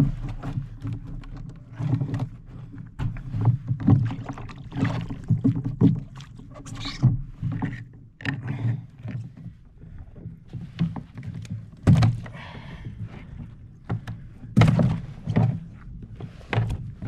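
Irregular knocks and thuds against a plastic kayak hull as fish and fishing gear are handled on board, over a low steady rumble of water and wind.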